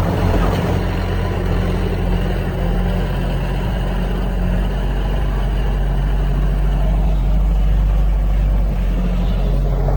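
Heavy diesel machinery engine running steadily, a low, even drone with no breaks.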